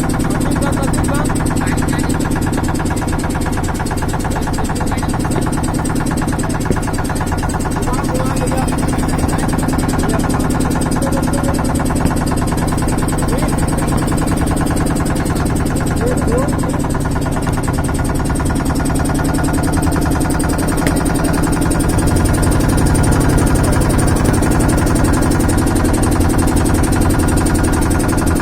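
A steady, loud engine drone running without change, growing a little louder about three-quarters of the way through.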